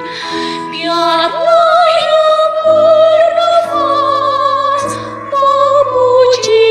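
Church choir singing a hymn in Indonesian: a high female voice part holds long notes with vibrato over sustained lower voice parts.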